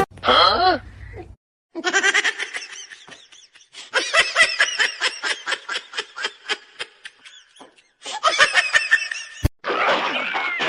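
Someone laughing hard in a long string of short, rapid ha-ha bursts, broken by a brief pause and cut off abruptly near the end.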